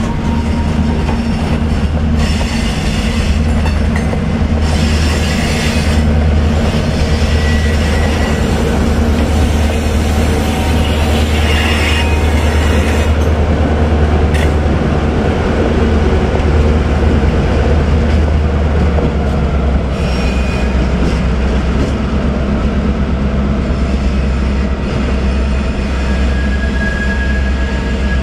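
Slow freight train of flatcars passing, wheels clacking over the rail joints with short high wheel squeals, over the steady low rumble of two BNSF diesel locomotives shoving the train from the rear, which pass by about halfway through.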